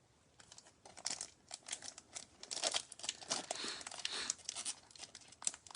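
Foil wrapper of a Bowman Chrome baseball card pack crinkling and tearing as it is worked open by hand, a dense run of crackles starting about half a second in.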